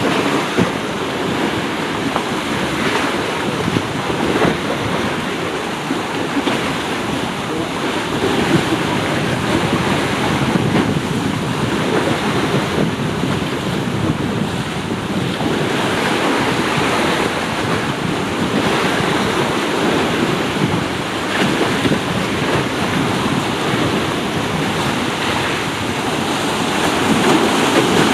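Harbour water washing and sloshing in irregular swells, with wind buffeting the microphone.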